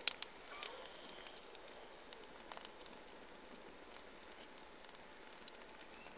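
Wood campfire crackling faintly, with irregular small pops and snaps over a soft hiss, a few sharper pops near the end.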